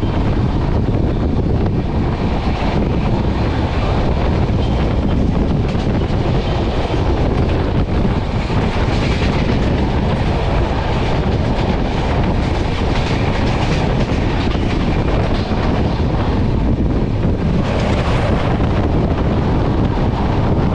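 Passenger train running at speed, heard from on board: a steady, loud rumble and clatter of the wheels on the track.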